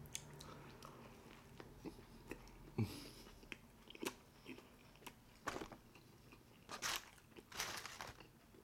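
Close-miked chewing of a McDonald's Big Mac and fries: wet mouth smacks and soft crunches at irregular moments, a few louder than the rest.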